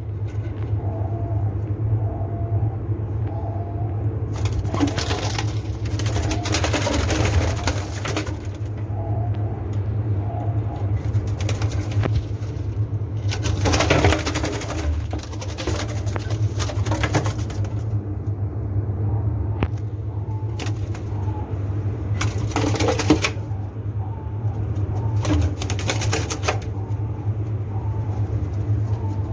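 Doves cooing softly and repeatedly over a steady low hum, broken by several loud noisy bursts a second or more long.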